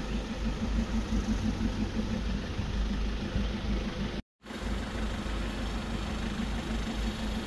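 Safari vehicle engine idling with a steady low hum; the sound cuts out completely for a moment about four seconds in.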